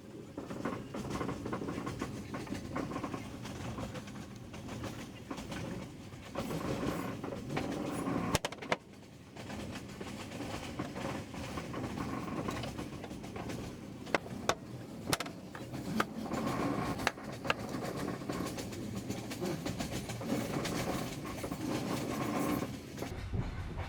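Passenger train running on the rails: a steady rumble with occasional sharp clanks from the wheels and carriage.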